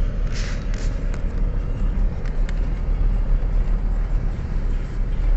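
Riding noise on a moving motorcycle: wind buffeting the microphone over engine and road noise, a steady low rumble, with a brief hiss about half a second in.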